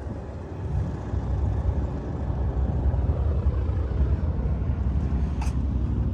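A low, steady engine rumble that grows louder about a second in, with a single sharp click near the end.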